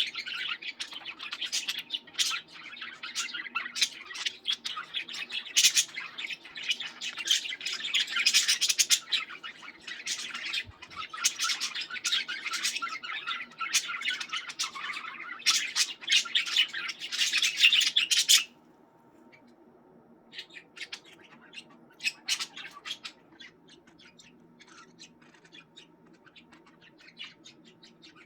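Several pet budgerigars chattering and squawking together in a dense, busy stream of chirps. About two-thirds of the way through it drops suddenly to a few faint, scattered chirps, with a faint steady hum beneath.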